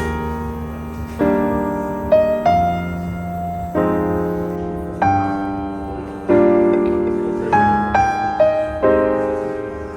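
Background music: a slow, gentle piano piece, chords struck about once a second and left to fade.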